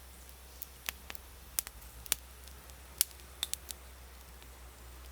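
Knife blade scraping the underside of a dryad's saddle mushroom to clean off dirt: a series of short, irregular scrapes and clicks, the sharpest about three seconds in.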